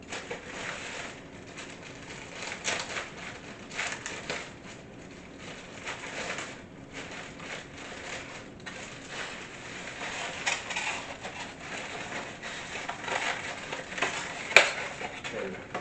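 Irregular crinkling and scraping from kitchen items being handled while baking, with a sharp click near the end.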